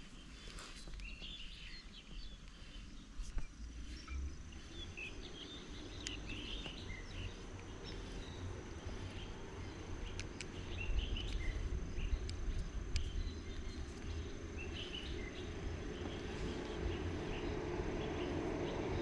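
Birds chirping with short, scattered calls over a low outdoor rushing noise that grows louder toward the end. A faint steady high tone and a few sharp clicks are also heard.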